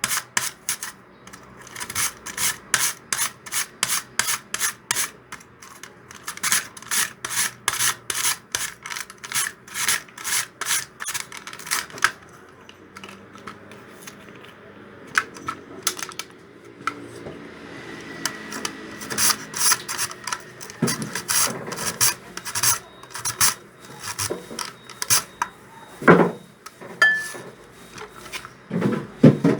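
Quick, even rasping strokes, about three a second, with a short pause about halfway through, then a few louder knocks near the end.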